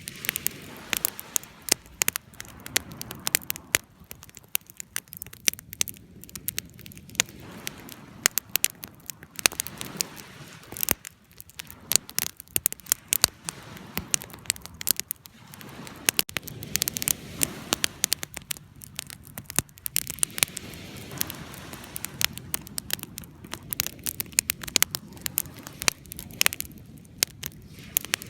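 Wood fire crackling and popping: irregular sharp snaps over a low, steady rush of flames.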